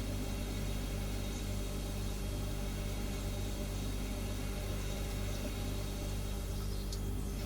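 Refrigerator humming steadily: an even low drone of several fixed tones, with a constant hiss over it.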